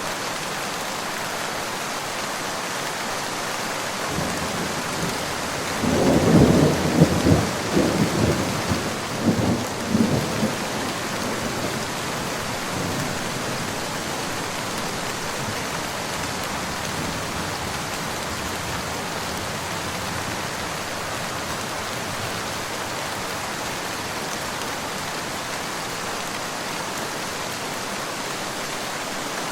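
Steady rain falling, with a peal of thunder about six seconds in that rumbles and rolls for several seconds before dying away.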